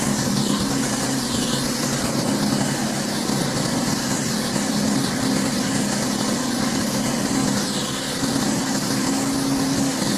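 Pressure washer's engine running steadily while its high-pressure water spray hisses against a hard surface, the hiss swelling and fading every few seconds as the spray moves.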